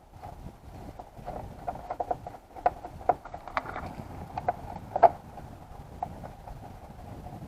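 Irregular metallic clicks and knocks of hand tools on the motorcycle, with a ringing clink to them and the loudest knock about five seconds in, while the spark plugs are being changed.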